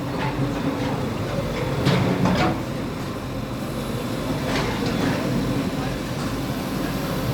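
Bulldozer engine running steadily, with several sharp clanks and knocks during demolition, and indistinct voices in the background.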